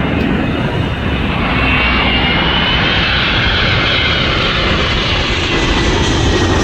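Jet airliner on final approach passing low overhead, its engines running with a loud, steady roar. A high whine through the roar falls slowly in pitch as the aircraft goes by.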